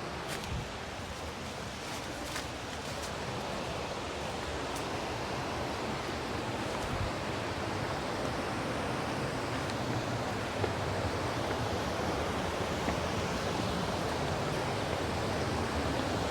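Linville River rushing over rocks, a steady roar of water that grows louder over the first several seconds and then holds. A few faint clicks sound in the first three seconds.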